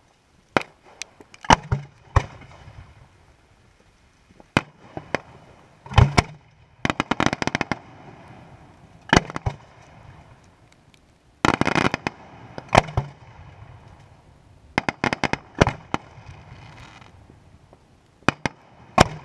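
Fireworks display: sharp shell bursts every second or two, some single reports and some quick runs of crackling pops, the loudest ones trailing off in a short low rumble.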